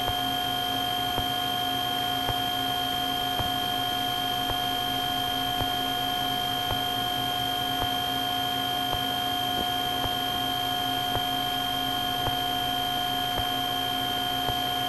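Steady cabin hum of a twin-engine Cessna 310 in slow flight: a few fixed tones that hold unchanged, with faint regular ticks about once a second.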